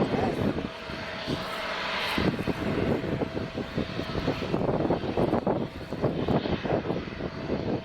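Airbus A350 jet engines (Rolls-Royce Trent XWB) running: a rushing noise that swells and fades, with a thin steady whine through much of it.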